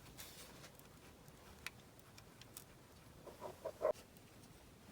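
Faint small clicks and scrapes of a die-cast model car's door being wiggled onto its hinge pin while pressed down, with a short cluster of sharper clicks about three and a half seconds in.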